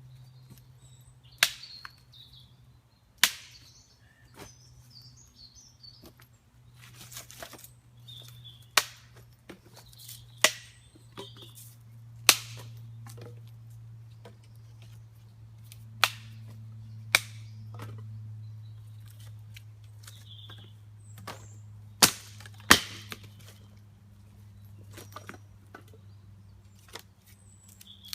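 Wood campfire crackling, with sharp, irregular pops and cracks from burning logs. Birds chirp faintly now and then.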